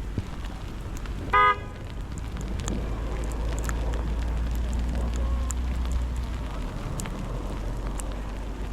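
A car horn gives one short toot about a second in, over city street noise. A low vehicle rumble then swells and eases off as it passes.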